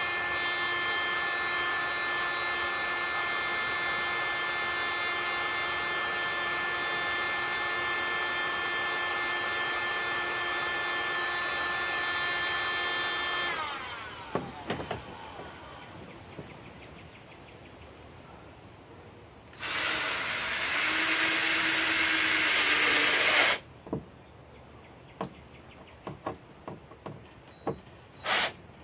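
Heat gun blowing steadily with a whine, warming the plastic barrel so a screw will sink in; it is switched off about 13 seconds in and winds down. Around 20 seconds in a power drill drives a screw into the softened plastic for about four seconds, followed by light clicks of handling.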